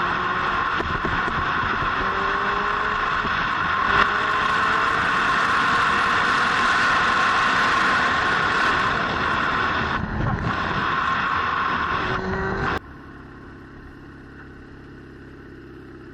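Motorcycle riding: a loud rush of wind with the engine note rising in pitch several times as it pulls. About 13 s in the rush cuts off abruptly, leaving a quieter, steady engine sound.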